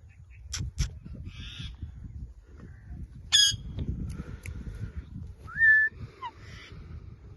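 Ringneck parakeet calling: a couple of sharp clicks and a raspy chatter, a loud harsh screech about three and a half seconds in, and a short rising whistle near the end, over a low rumble.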